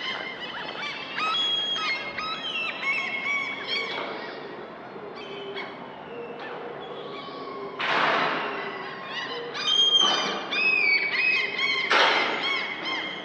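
Several birds calling and singing at once: a dense chorus of short chirps and whistles overlapping all through. Two brief rushes of noise stand out, about 8 and 12 seconds in.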